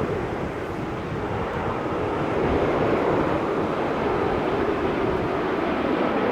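Jet airliner engines, a steady rushing noise that grows a little louder about two seconds in.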